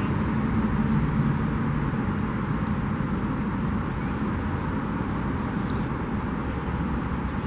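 Steady outdoor background rumble and hiss, with a few faint, short high chirps scattered through it.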